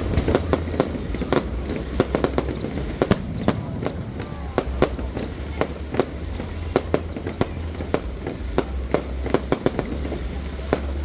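Fireworks going off: a rapid, irregular string of sharp bangs and pops, often several a second, over a steady low rumble.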